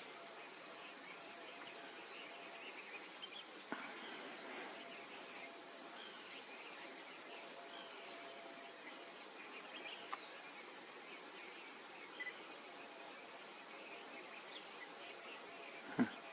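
Steady insect chorus: a continuous high-pitched shrill that holds unbroken throughout, with a few faint clicks.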